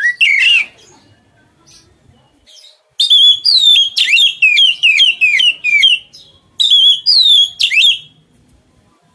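Songbird singing loudly in rapid runs of sharply falling whistled notes: a short burst at the start, a long run of about a dozen notes a few seconds in, and a shorter run near the end, with quiet pauses between.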